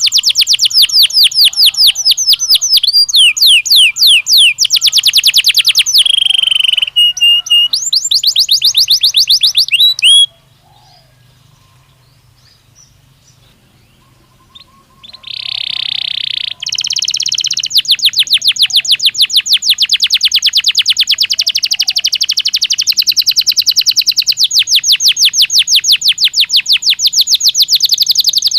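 Belgian canary singing: fast trills of rapidly repeated high notes. They break off for a few seconds near the middle, then start again with a harsh buzzing note and run on as a long even trill.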